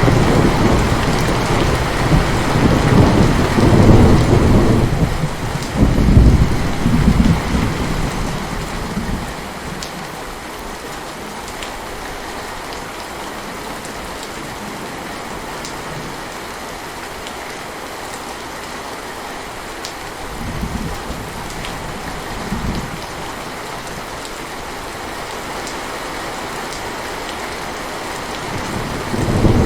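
Steady heavy rain with rolling thunder: a long deep rumble over the first several seconds that fades out, then rain alone with a couple of brief low rumbles past the middle, and thunder building again at the end.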